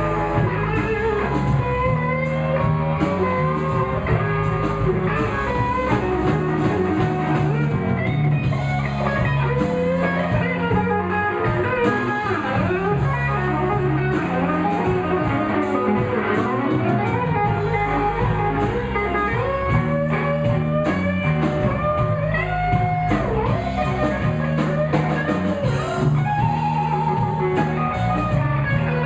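Live blues band playing an instrumental passage: a lead guitar solo with bending notes over bass and drum kit.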